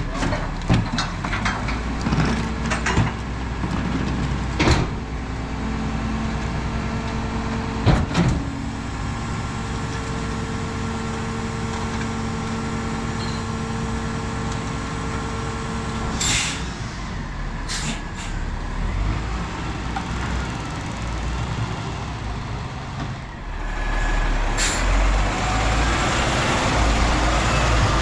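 Autocar ACX split rear-loader garbage truck at work. First come bangs and knocks as trash goes into the hopper. Then a steady hydraulic whine runs for about ten seconds as the Heil packer cycles, followed by two short air-brake hisses, and the diesel engine grows louder near the end.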